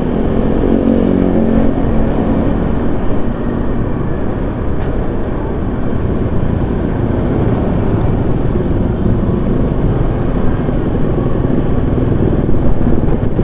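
Vehicle running along a city road: engine drone with a steady rumble of road and wind noise. A clear engine tone stands out for the first few seconds, then blends into the constant rumble.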